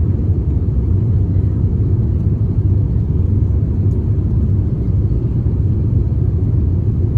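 Steady low rumble heard inside the cabin of an Airbus A350-900 airliner: engine and airflow noise, with no rise or fall.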